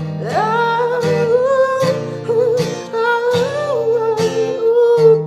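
Strummed acoustic guitar accompanying a wordless sung vocal line that glides and bends in pitch over the chords.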